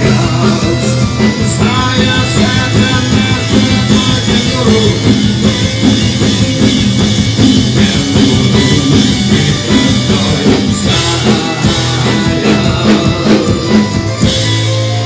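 Rock band playing live: drum kit, electric guitar and bass guitar in a loud full-band passage. About fourteen seconds in the drums stop and a final chord is held, ringing out as it starts to fade.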